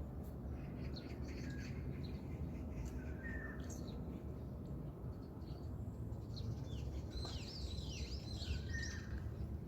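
Small birds chirping and calling at dawn: a short whistled note repeats every few seconds, and a flurry of quick, falling chirps comes in the second half, over a steady low background hum of open-air ambience.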